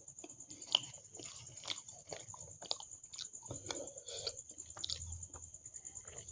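A person chewing and biting food close to the microphone. Irregular wet mouth clicks and smacks run through it, the sharpest about three-quarters of a second in. A faint steady high whine sits underneath.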